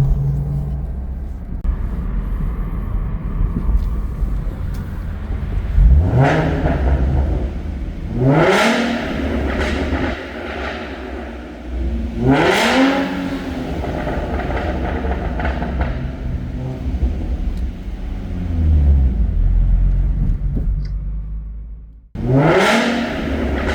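Ford Mustang 3.7 L V6 through a Roush axle-back exhaust, running with a low rumble and revving up sharply four times, each rev climbing quickly in pitch and falling back, with a slower swell in between.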